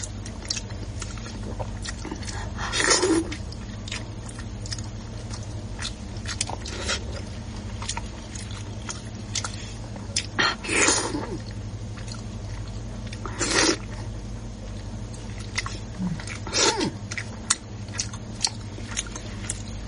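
Close-up eating sounds: a person chewing and biting with wet mouth clicks and smacks, and a few louder bursts of mouth noise. A steady low hum runs underneath.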